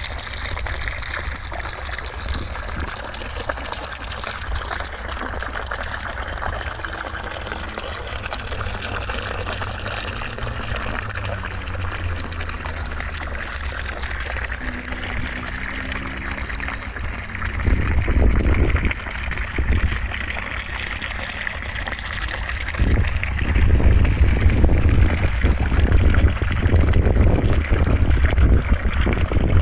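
Steady rushing of running water, with louder, deeper surges about eighteen seconds in and again from about twenty-three seconds on.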